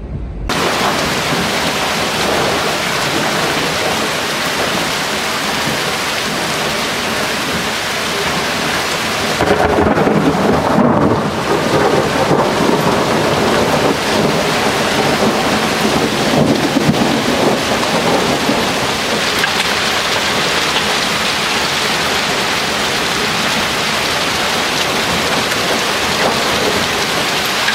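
A hailstorm: a heavy downpour of hail and rain pelting down steadily, growing louder for several seconds about a third of the way in.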